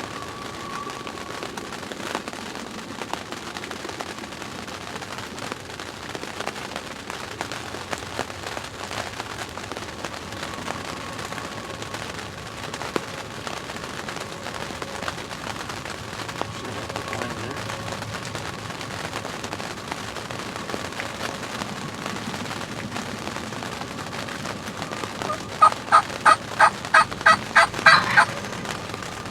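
A loud, close run of about a dozen quick turkey yelps, some four a second, near the end, over a steady background hiss.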